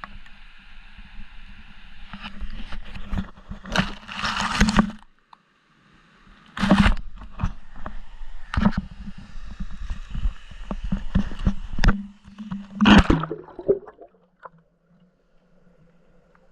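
Water sloshing and gurgling around a camera being dunked and hauled through the water, with irregular knocks and scrapes of handling on the camera. The sound drops out briefly about five seconds in and goes quiet near the end.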